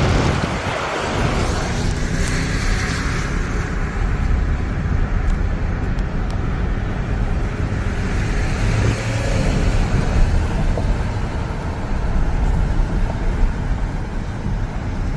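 Steady road and wind noise of a car being driven, a continuous rumble without distinct events.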